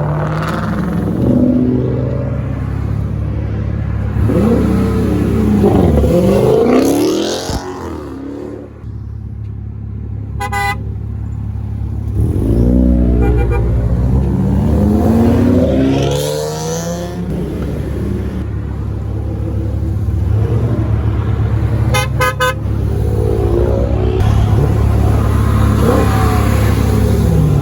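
Muscle car engines running with a steady low drone and revving several times, each rev rising and falling in pitch. A short car horn toot sounds near the middle, and a quick run of toots about two-thirds of the way through.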